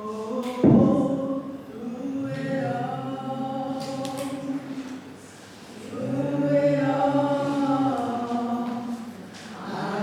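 Voices singing a slow worship song in long held phrases, with a short thump about a second in.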